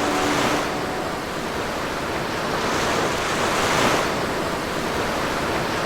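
Ocean surf breaking on the beach, a steady rushing that swells with each incoming wave roughly every two to three seconds.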